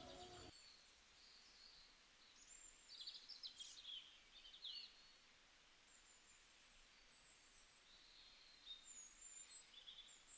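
Near silence, with faint bird chirps in the background twice, once in the middle and again near the end.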